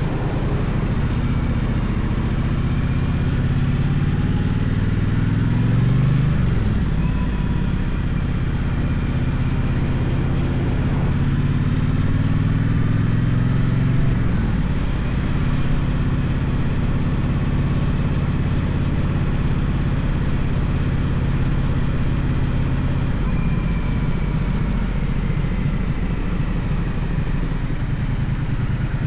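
Gaokin GK1200 motorcycle engine under way, its pitch climbing twice as it pulls up through the revs, dropping at each gear change about six and fourteen seconds in, then running at a steady cruise.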